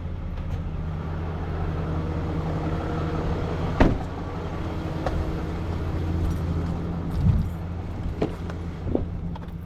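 Tow truck engine running steadily with a low hum. There is one sharp metallic clank about four seconds in and a few lighter knocks near the end.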